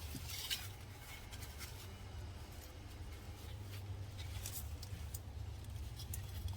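Hands digging through loose soil in a potato container, with scattered short scrapes and rustles over a steady low rumble.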